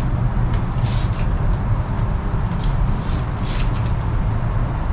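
Short rustles and scrapes of bankline cord being pulled around and tightened on a wooden frame pole, several times, over a steady low rumble.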